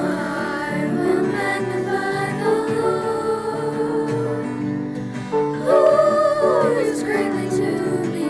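Worship song: voices singing over instrumental accompaniment, with a long held note with vibrato about six seconds in.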